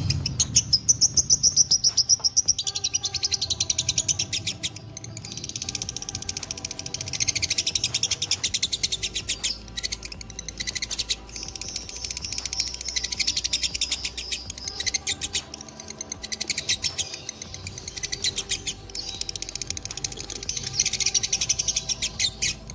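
Lovebirds giving the long, rapid chattering trill known as 'ngekek', a fast run of repeated high notes that goes on for several seconds at a stretch with only brief pauses.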